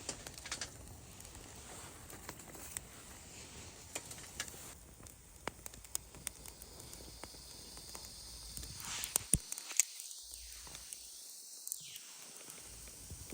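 Wood campfire crackling: scattered sharp pops and snaps over a soft steady hiss.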